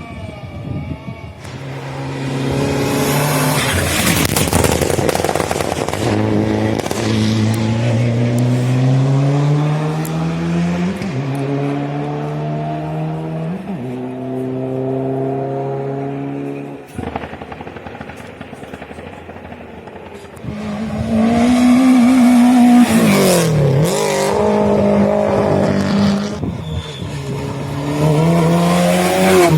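Hillclimb race car engine at full throttle, its pitch climbing and dropping back with each upshift as the car pulls away. It fades for a few seconds, then a race car engine is loud again about two thirds of the way through, its pitch falling and rising as it passes.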